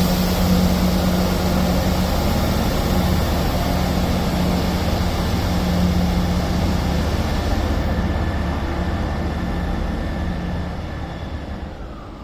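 Diesel multiple unit departing, its engines running under power with a steady low drone that fades over the last few seconds as the train pulls away.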